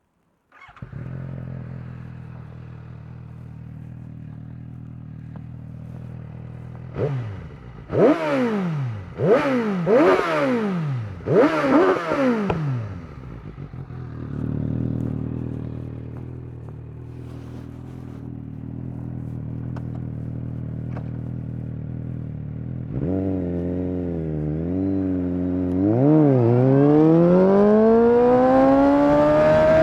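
2019 Suzuki GSX-S750's inline-four engine through a Yoshimura SQ11 exhaust with no dB killer and no catalytic converter. It starts about a second in and idles, is revved four times in quick succession with popping on the overrun, idles again, then pulls away with the pitch rising steadily as it accelerates near the end.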